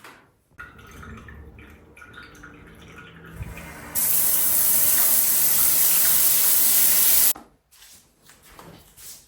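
Water tap running into a sink in a steady rush that turns on abruptly about four seconds in and cuts off about three seconds later, after some quieter handling sounds.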